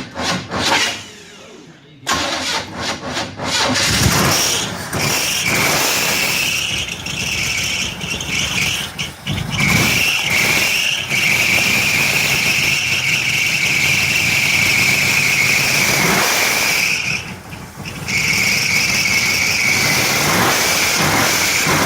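Small-block Chevy V8, said to be a 383 stroker, cranking briefly and catching about two seconds in, then running with a steady high-pitched squeal that drops out once near the end and comes back. The squeal is typical of a slipping belt; the power steering belt is very loose.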